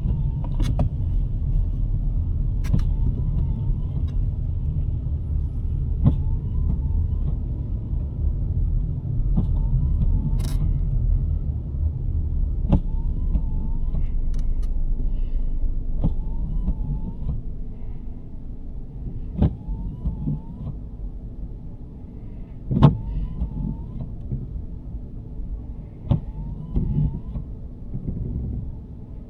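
Inside the cabin of a 2023 Nissan Sentra driving in snow: a steady low road rumble that drops noticeably about two-thirds of the way through. Over it, the windshield wipers sweep about every three seconds, each pass a faint click and a brief wavering squeak.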